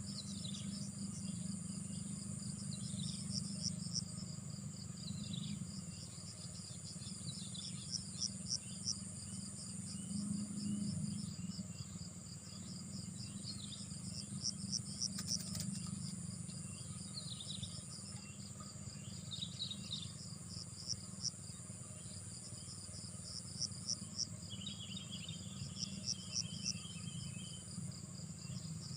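Insects calling: a steady high-pitched buzz, with repeated trains of rapid chirps coming every few seconds. Scattered short bird chirps and a low steady rumble lie beneath.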